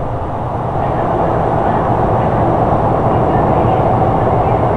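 Sotetsu 12000 series electric train running, heard from inside the car: a steady rumble of wheels on rail and running gear that grows slightly louder about a second in.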